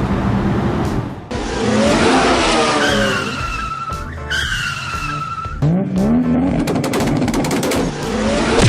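Car sound effects: engine noise and tyres skidding with high squeals midway, and an engine revving up a little later, over background music.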